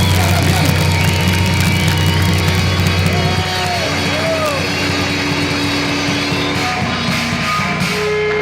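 Live heavy-metal band playing loud distorted electric guitars, bass and drums. A little over three seconds in the heavy low end drops away, leaving held, ringing guitar notes with a few bent notes.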